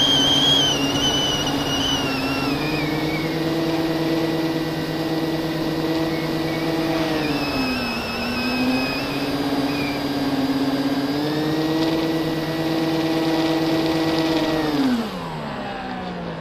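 FPV quadcopter motors whining at a steady pitch, dipping and recovering about eight seconds in, then sliding down and quietening near the end as the throttle comes off.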